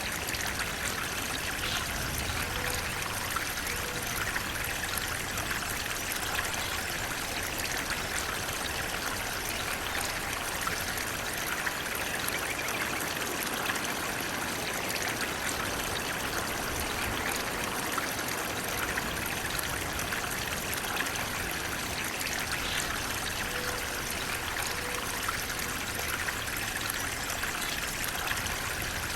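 Running water flowing steadily, an even, unbroken rush with no pauses.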